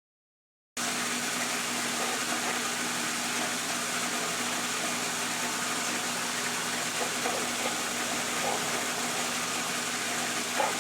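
Frigidaire washing machine running, a steady hum under a constant rushing noise that starts just under a second in: the excessive noise and vibration the owner complains of.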